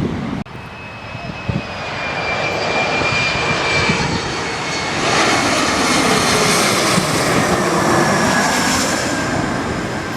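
Jet airliner passing overhead: engine noise building to a peak in the second half and easing off near the end, with a high engine whine that slowly falls in pitch as it goes by.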